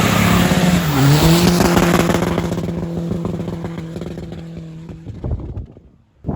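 Tuned VW PD130 1.9 TDI four-cylinder diesel with a big turbo accelerating hard. The revs climb, dip briefly at a gear change about a second in, then rise and hold steady while the sound fades away over the next few seconds.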